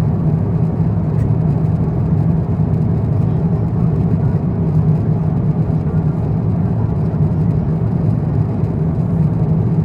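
Steady drone of an Airbus A350-900 in flight, heard inside the cabin: engine and airflow noise, low and even throughout.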